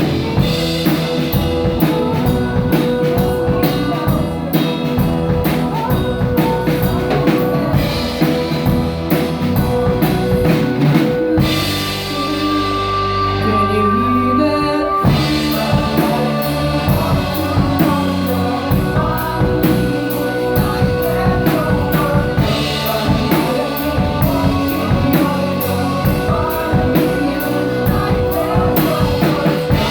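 A band playing a song with a steady drum-kit beat and singing. The drums drop out for a few seconds about twelve seconds in, leaving held notes, then the beat comes back.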